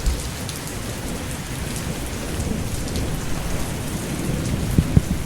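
Thunderstorm: steady rain with a low rumble of thunder that swells slowly toward the end.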